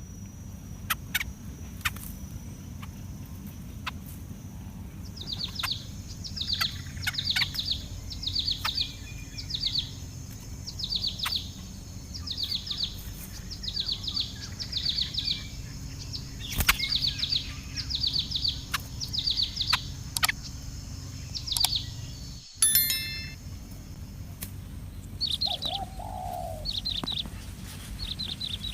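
Nestling birds giving high, thin begging chirps in short runs, repeated about once a second, over a steady low background hum. A single lower call comes near the end.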